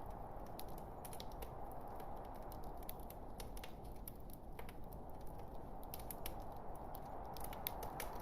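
Log fire crackling: scattered sharp pops and snaps over a steady low hiss of burning wood.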